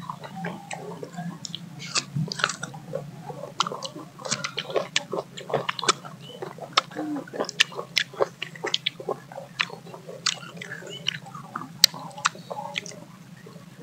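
Several people biting and chewing slices of mango close to the microphone: a dense, irregular run of wet crunches and mouth smacks, over a low steady hum.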